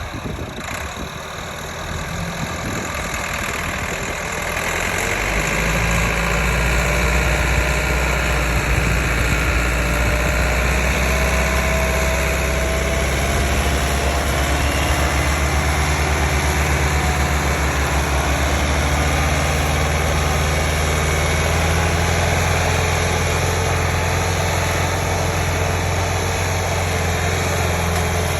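Tractor diesel engine working hard, as if hauling a heavily loaded sugarcane trolley. It grows louder over the first five seconds or so, then runs steadily.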